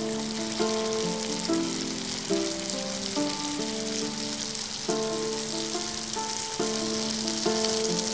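Bhatura dough deep-frying in hot oil in a pan, giving a steady sizzle, with instrumental music playing under it.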